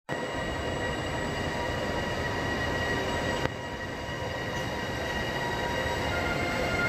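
Freight train hauled by an electric locomotive rolling slowly past, with a steady rumble and a steady high-pitched squeal. There is a single short click about halfway through.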